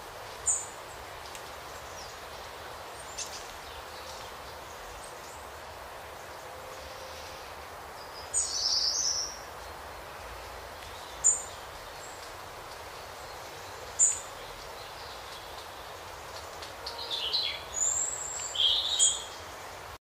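Wild birds chirping over a steady outdoor hiss: single short chirps every few seconds, a longer call about eight seconds in, and a quick run of calls near the end.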